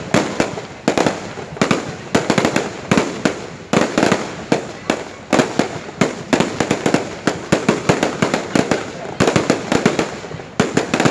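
Fireworks display: a dense run of rapid bangs and crackles in volleys, easing briefly a few times between them.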